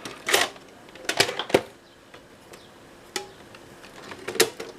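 A handful of sharp clicks and knocks from handling the camcorder and its parts, spaced a second or so apart, over a faint steady hum.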